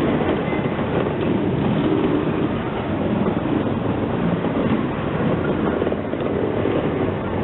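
A train running on the track, a steady loud noise without pauses.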